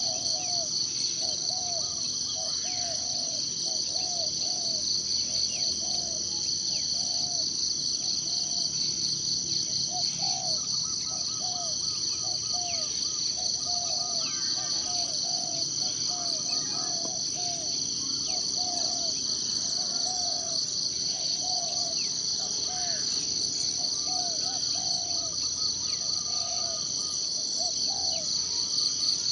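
Forest ambience dominated by a steady, high-pitched insect chorus with a fast pulsing trill. Over it, a bird gives short, low calls about once or twice a second, with occasional runs of higher repeated notes.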